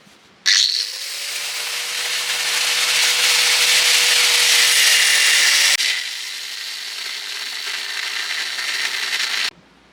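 Electric power tool spinning up and running under load, a loud grinding-cutting rush with a steady motor whine. It drops to a lower level at an abrupt break about six seconds in and cuts off suddenly near the end.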